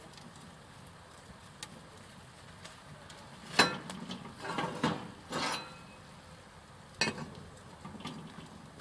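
A few sharp clinks and knocks of hard objects being handled, like camp cookware or stove parts. The loudest is about three and a half seconds in, a small cluster follows a second later, and there is another near seven seconds.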